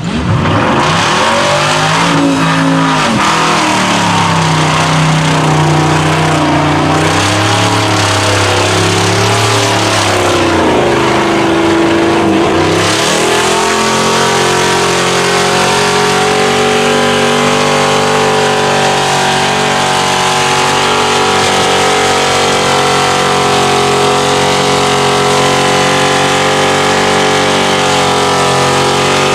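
Mud truck engine revving hard, its pitch rising and falling repeatedly, then held at high, steady revs from about halfway through, under a continuous rush of spinning tires and mud.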